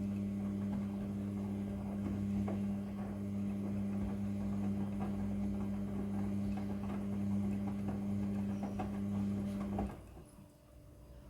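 Midea front-loading washing machine humming steadily with faint scattered clicks, then cutting off suddenly about ten seconds in.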